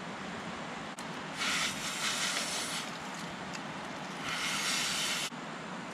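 Someone blowing hard into smouldering kindling to fan a campfire into flame: two long blows of breath, each about a second or more, over the steady rush of a river.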